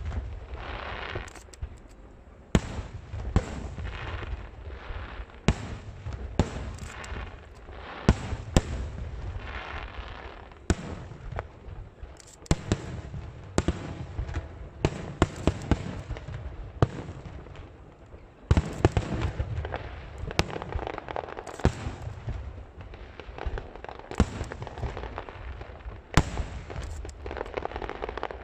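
Aerial fireworks shells bursting in an irregular series of sharp bangs, about one or two a second, over a low rumble, with stretches of crackle between the bangs.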